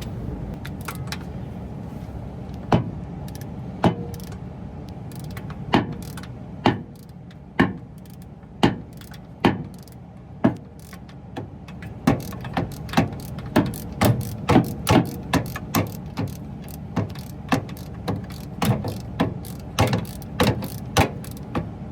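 Hand socket ratchet clicking as a bolt is backed out, slow single clicks at first, then quicker at about two a second through the second half, over a steady low hum.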